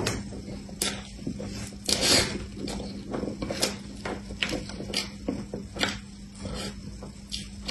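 Close-miked wet chewing and lip-smacking of a mouthful of cream puff, a dense run of irregular smacks and clicks over a steady low hum.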